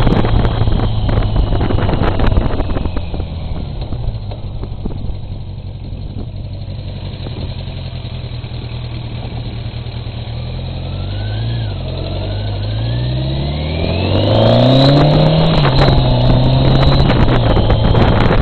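Motorcycle engine running under way, quieter for a while, then revving up through the gears about two-thirds of the way in and running louder near the end, with wind buffeting the microphone.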